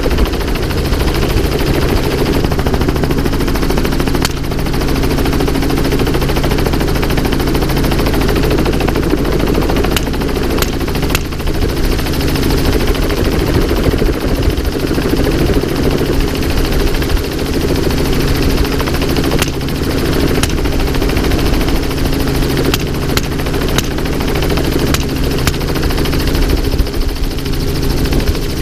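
Helicopter in flight heard from on board: steady, loud rotor and engine noise, with a few brief sharp cracks scattered through it.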